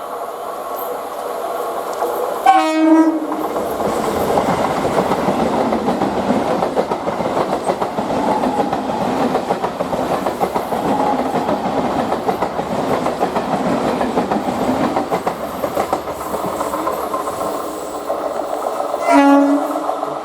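Medha EMU local train sounding a short horn blast, then running past at speed with a steady rumble and the clickety-clack of its wheels over the rail joints for about fifteen seconds. A second short horn blast comes near the end.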